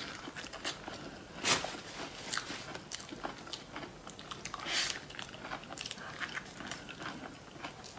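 A person biting and chewing soft durian flesh close to the microphone: many small smacking clicks, with a louder smack about a second and a half in and a short hissing sound near five seconds.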